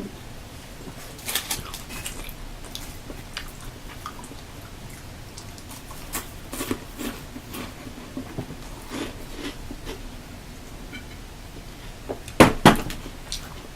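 A person eating snack food close to the microphone: scattered small clicks and crackles of chewing and handling food, with two louder sharp clicks close together near the end.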